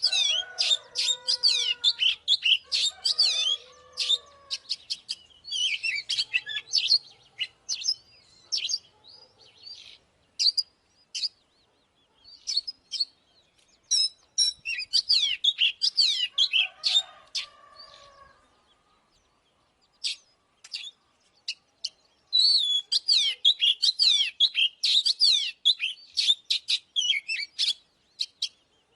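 Oriental magpie-robin singing: fast, varied runs of whistled and gliding notes in several bursts, with a short pause about two-thirds of the way through.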